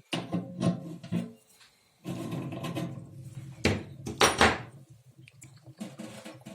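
Wrench and metal tap parts clicking, scraping and clinking as a tap cartridge is unscrewed, with a few louder knocks about four seconds in.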